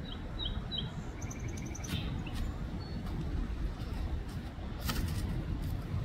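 Small birds chirping: a few short high chirps in the first second, then a quick trill of repeated notes, over a steady low rumble. A couple of sharp clicks, the louder about five seconds in.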